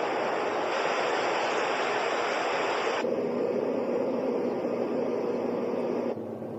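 Dreamegg Pocket Sleep 1 mini white noise machine playing steady noise that switches abruptly to a different sound three times: under a second in, about three seconds in, and near the end. The last two sounds carry a low steady hum under the noise.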